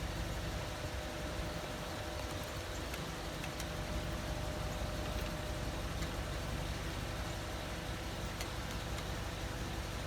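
Steady engine idling hum with a low rumble and a few faint clicks.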